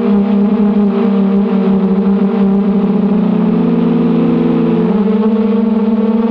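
Brushless motors of a 250-size racing quadcopter (1806 2280 kV) whining steadily under throttle, the pitch rising a little after three seconds in and dropping back near five seconds in.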